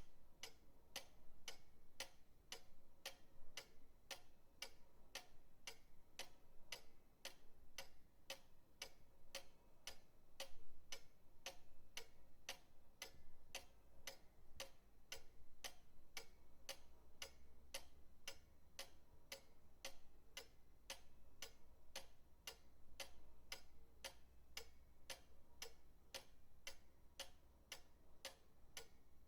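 Pendulum clock ticking steadily, about two even ticks a second, with a faint low hum underneath.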